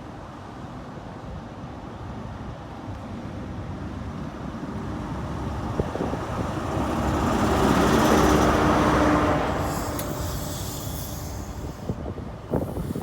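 Class 43 HST power car's diesel engine passing by, growing louder to a peak about two-thirds of the way through, then fading away. A brief knock comes near the end.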